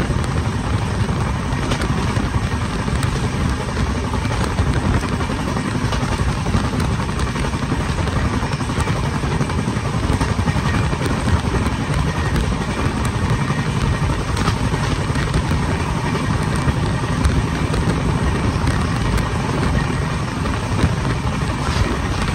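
Steady rumble and rush of an express passenger train running at speed, heard from on board, with faint clicks scattered through it.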